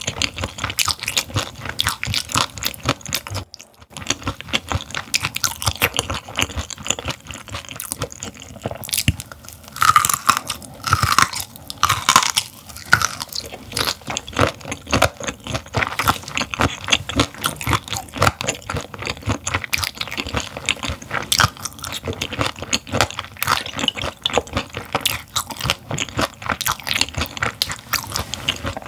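Close-miked chewing of raw gizzard shad, with steady wet crunching as the fish and its small bones are bitten through. A few short hums are heard around the middle.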